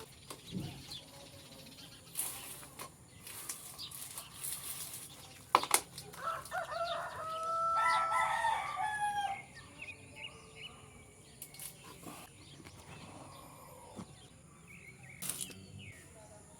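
A rooster crows once near the middle, one long call of about three seconds, amid scattered light knocks and rustles, with one sharp knock just before the crow.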